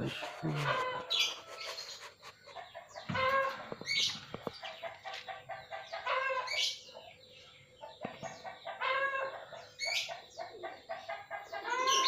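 Bird calls: short pitched calls in bunches, one bunch about every two to three seconds.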